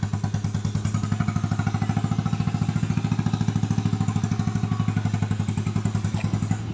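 A vehicle engine running steadily with a rapid, even chugging pulse. Right at the end the pulsing gives way to a smoother drone.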